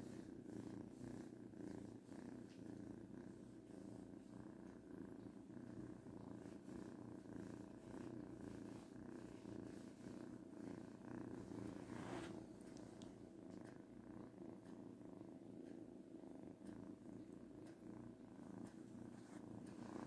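A kitten purring steadily.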